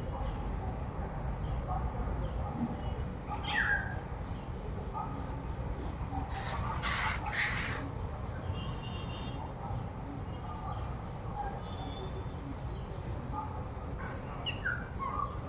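Birds calling: short sharp chirps that fall in pitch, and two harsh, raspy calls about six to seven seconds in, over a steady high drone of insects.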